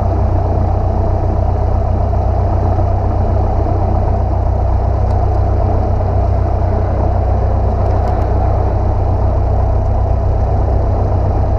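Single-engine piston light airplane's engine and propeller droning steadily in flight, heard from inside the cabin.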